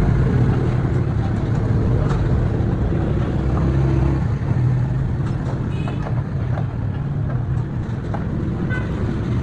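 Steady low rumble of motor vehicles, with a few faint clicks scattered through it.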